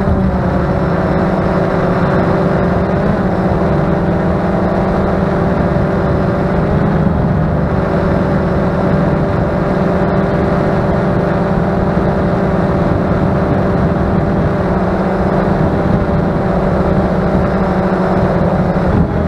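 Strong wind buffeting the microphone in a steady low rumble, with the even hum of a quadcopter drone's motors holding a constant pitch.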